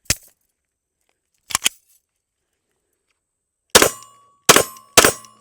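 Shadow Systems MR920 9mm pistol being fired: one sharp report at the start, a pair of lighter clicks about a second and a half in, then three loud shots in quick succession about half a second apart near the end.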